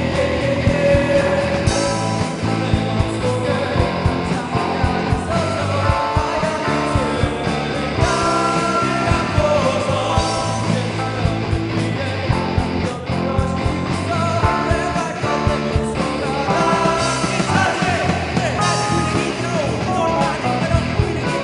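A teenage rock band playing live: electric guitar and drums with a singer, at a steady beat.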